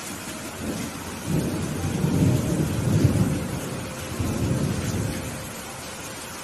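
Steady rain with a roll of thunder that builds about a second in, peaks in the middle and fades away before the end.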